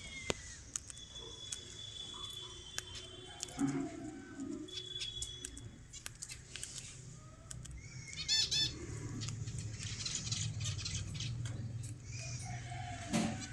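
Cockatiel giving a quick run of short chirps about eight seconds in, amid scattered sharp clicks and taps, with a thin steady high tone early on and a low hum in the second half.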